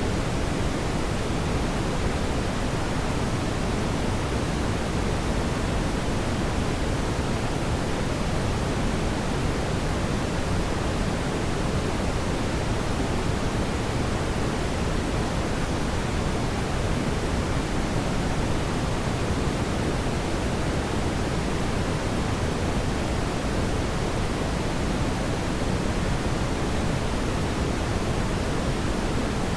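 Steady, even rushing noise, fullest in the low end, unchanging throughout, with no distinct crackles or pops.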